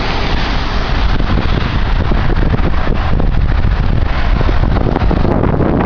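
Strong wind buffeting the microphone: a loud, steady, low rumbling rush.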